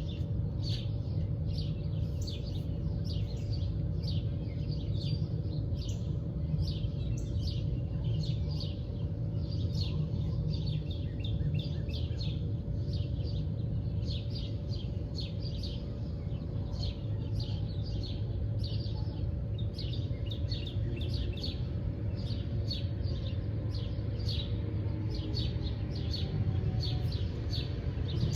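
Songbirds chirping continuously, many quick short calls overlapping. Underneath is a steady low rumble and a faint steady hum.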